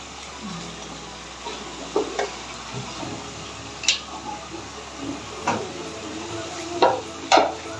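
Carpet being washed by hand: a steady watery hiss with about five sharp clacks, the loudest two near the end.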